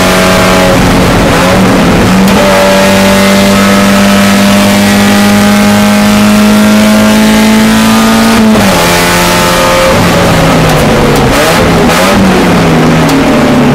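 Spec Miata's four-cylinder engine heard from inside the cockpit, running near the top of its rev range with a slowly rising pitch. About eight and a half seconds in the pitch drops as the car brakes hard, with short rises in revs on the downshifts, and near the end it climbs again under power.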